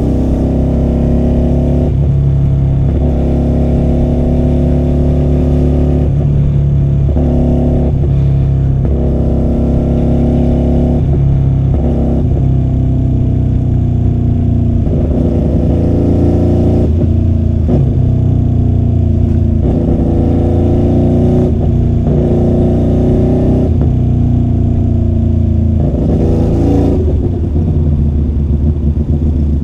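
QJMotor SRV250's 250 cc V-twin engine running through a custom-made 2-into-1 exhaust while riding, recorded from inside the rider's bag. The engine note rises and breaks off every few seconds as the throttle is opened and closed and gears change.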